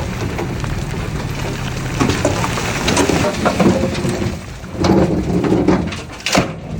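Heavy earthmoving machinery at work: a steady diesel engine drone with irregular louder bursts of rumbling and scraping, strongest about three and five seconds in.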